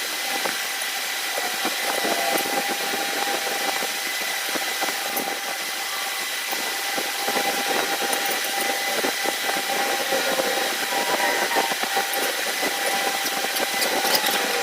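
A motor-driven machine running steadily with a constant high whine over a noisy hum.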